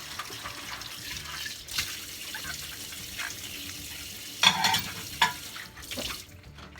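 Kitchen tap running into a sink while dishes are washed, with a few sharp clinks of dishes knocking together. The running water stops about six seconds in.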